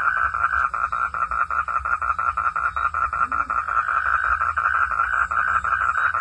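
Frog calling in a steady, rapid train of pulses, about six a second.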